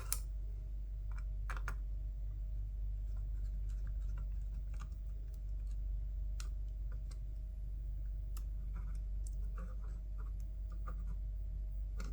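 Scattered small clicks and light scraping of small screws and plastic headset parts being handled and fitted into the housing, over a steady low electrical hum.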